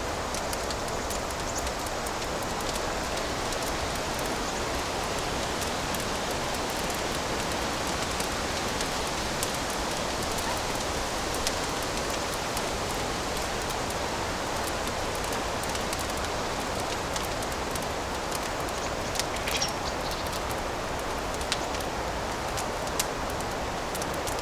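Wood fire crackling in a fireplace: a steady hiss with scattered small pops, and a few louder snaps near the end.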